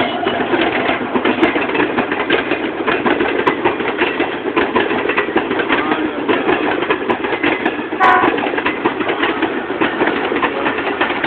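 Passenger train coaches passing at speed, their wheels clattering steadily over the rail joints.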